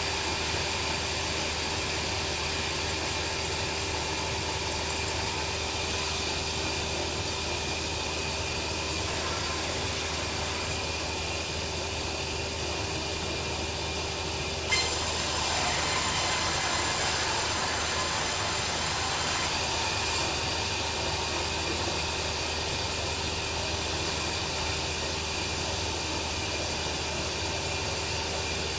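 Bandsaw mill running steadily with a constant machine drone and whine. About halfway through it suddenly gets louder, with a high hissing whine added for about five seconds before settling back.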